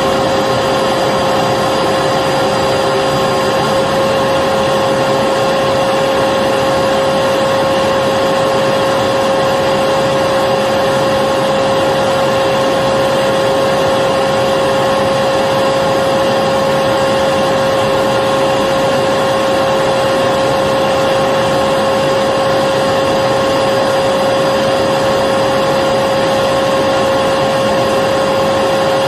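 Electric vacuum cleaner running continuously at a steady pitch, a constant whine over a hiss of rushing air.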